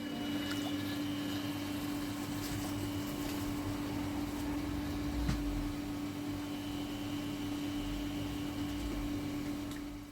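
A steady machine-like hum at one constant pitch over a background of noise, starting abruptly and dropping away near the end.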